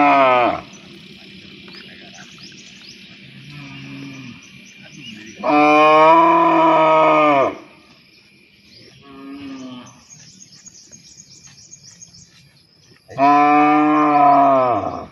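Cows mooing repeatedly: long, loud moos at the start, in the middle and near the end, each dropping in pitch as it ends, with two shorter, fainter moos in between.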